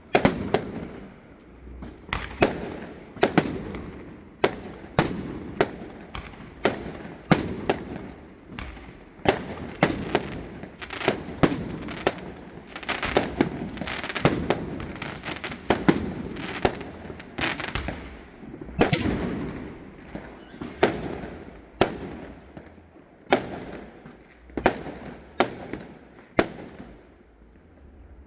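Fireworks going off: an irregular run of sharp bangs, about one or two a second, with crackling and a low rumble between them.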